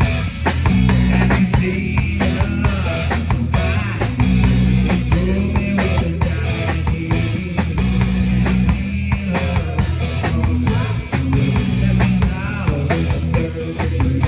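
A live rock band playing an instrumental stretch: electric guitar over a drum kit keeping a steady beat.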